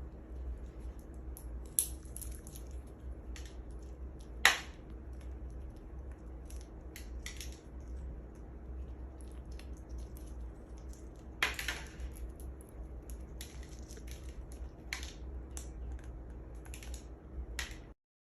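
A parrot cracking and nibbling a pistachio in its beak: irregular small clicks and crunches, with two sharper cracks about four and a half and eleven and a half seconds in, over a faint low hum.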